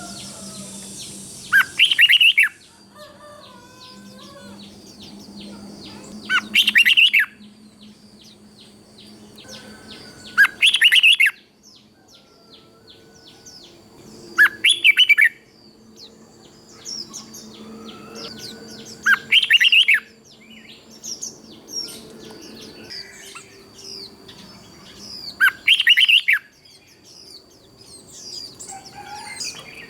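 Red-whiskered bulbul singing short, loud, rich phrases about once every four seconds, with fainter chirping in between. It is a standard song used to teach young caged bulbuls and excite other birds.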